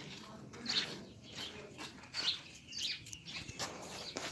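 Small birds chirping: a few short, high chirps scattered through a quiet background.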